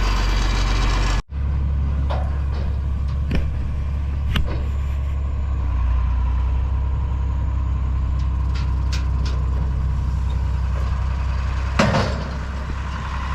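John Deere 4230 tractor's six-cylinder diesel running steadily under way, a low drone with a few short knocks and rattles and a louder clunk near the end. The sound breaks off abruptly about a second in, then resumes at the same steady drone.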